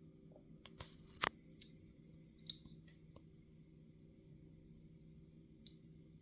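A few sharp clicks and knocks from the IBM Model M keyboard being handled during disassembly. The loudest is about a second in, after a quick cluster, with single clicks around two and a half seconds and near the end, over a steady low hum.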